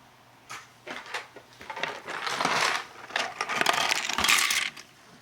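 Hands handling small plastic model-kit parts: a few sharp clicks, then two stretches of crinkling, rattling clatter.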